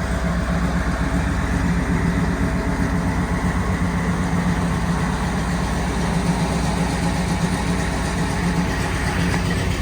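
Restored old truck's engine idling steadily.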